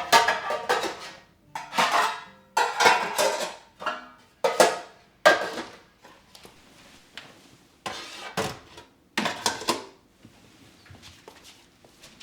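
Dishes and cutlery clattering as they are handled and set down: a run of sharp clinks and clatters with short ringing tails for most of the stretch, dying down near the end.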